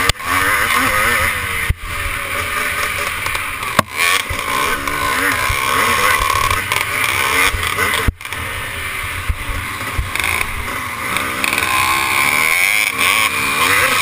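Motocross bike engine running hard, its pitch rising and falling as the throttle opens and closes, with the sound dropping out sharply for a moment a few times.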